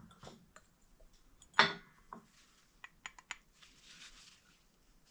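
A single loud, sharp pop about a second and a half in, then a few light metallic clicks: a Mazda RX-7 rear toe-link bushing breaking loose as it is pressed out of the arm.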